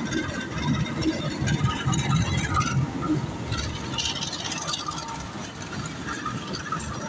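Diesel locomotive passing close below with its engine running, then its passenger coaches rolling by over the rails: a steady low rumble.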